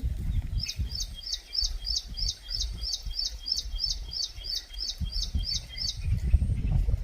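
A bird calling a long, even series of short, high repeated notes, about three a second, which stops about a second before the end. Under it runs a low rumbling noise.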